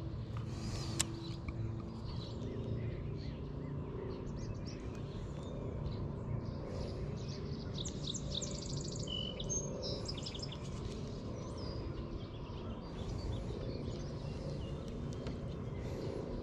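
Songbirds chirping, with one bird giving a rapid trill of high notes a little past the middle, over a steady low background rumble.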